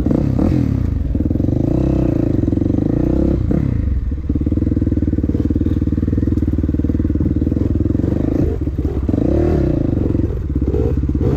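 Dirt bike engine running steadily, its pitch rising and falling a few times as the throttle is opened and eased off.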